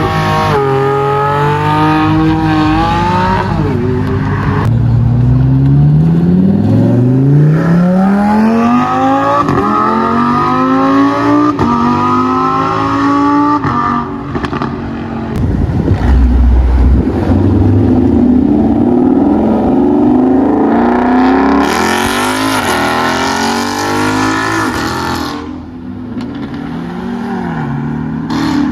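High-performance cars accelerating hard, one after another, with engine revs climbing and dropping back through several gear changes. A loud, harsh noisy stretch lasts a few seconds about twenty-two seconds in.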